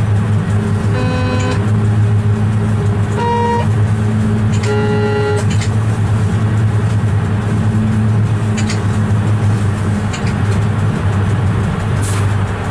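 Steady low hum of a locomotive cab while the train runs, with three short horn blasts in the first half, each at a different pitch.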